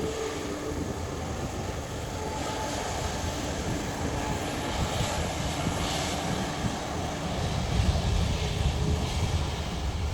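Jet airliner engines heard as a steady rumbling roar, a little louder near the end.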